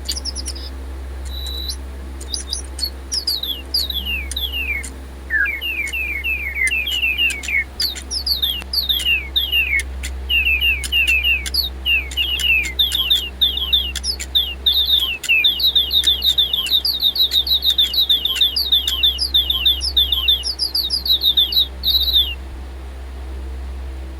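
Silverlit DigiBirds robot toy birds chirping: quick runs of downward-sliding electronic chirps for about twenty seconds, stopping shortly before the end, over a steady low hum. The owner puts their patchy, out-of-sync singing down to low batteries.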